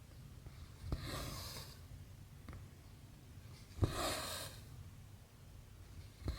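Needle punching through cross-stitch fabric with a sharp click, then cotton thread drawn through it with a hissing rasp, three times at an even pace of about one stitch every three seconds.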